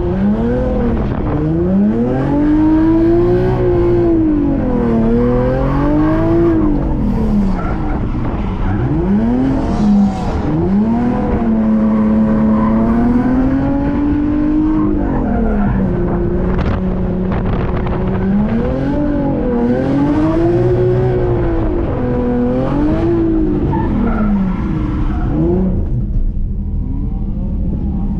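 Drift car engine revving up and down over and over as the car is thrown through a drift run, holding steady high revs for a few seconds in the middle. Near the end it drops to low, steady revs.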